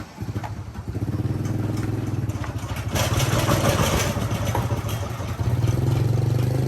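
Husqvarna 365 two-stroke chainsaw engine running steadily, a little louder near the end.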